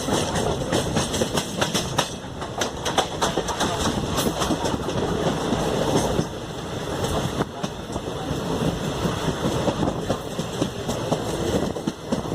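Passenger train running along the track: a steady rumble of the wheels with irregular clicks and clatter from the rails, busiest a couple of seconds in.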